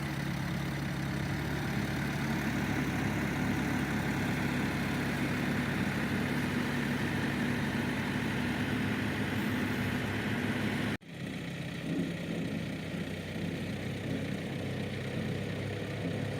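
Diesel engine of an earth-moving machine running steadily. About eleven seconds in, the sound drops out for an instant and comes back a little quieter and rougher.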